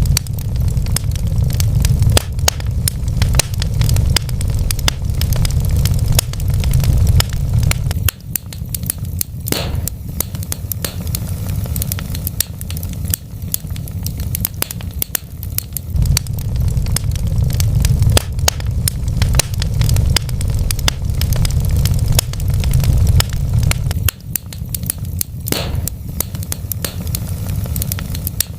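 Wood fire burning in a fireplace, crackling with many small sharp snaps over a low rumble of flames. Two louder pops stand out, about a third of the way in and near the end.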